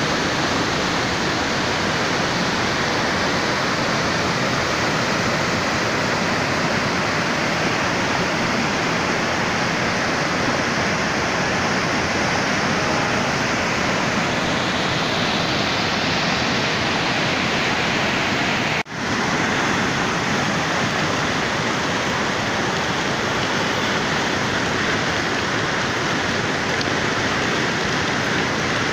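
Steady, dense rushing of heavy rain and running water. It breaks off for a split second about two-thirds of the way through.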